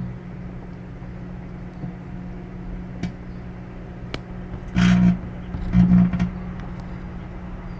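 Microwave oven running with a steady electrical hum while a cell phone inside it heats and starts to burn. Two sharp clicks come about three and four seconds in, then two loud crackling bursts about five and six seconds in.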